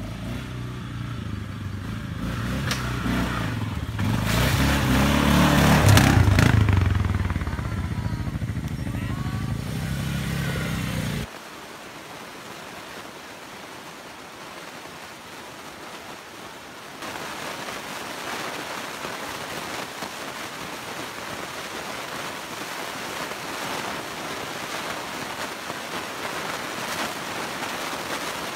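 ATV engine running, getting louder around five to six seconds in and then easing off. It cuts off suddenly about eleven seconds in, leaving a steady hiss.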